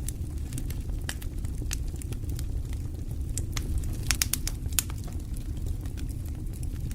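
Fire crackling in a fireplace: irregular sharp pops and snaps over a steady low rumble, with a quick cluster of pops about four seconds in.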